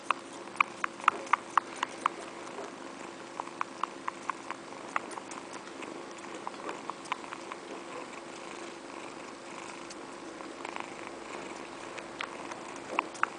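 A cat gnawing and nibbling on a finger, its teeth and mouth making runs of sharp little clicks, several a second, thickest in the first two seconds and again near the end.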